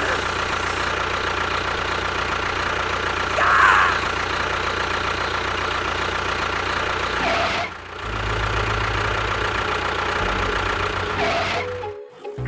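Engine-like running sound with a steady low hum, changing abruptly at about 8 seconds and cutting out near the end, with short chirps now and then.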